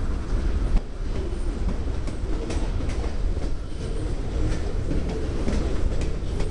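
Train approaching and running beneath: a steady low rumble with scattered sharp clicks of wheels over the rails.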